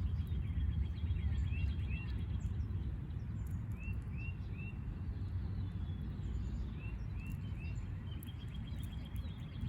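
Yard birds calling: short chirps in twos and threes and a rapid high trill near the start and again near the end, over a steady low rumble.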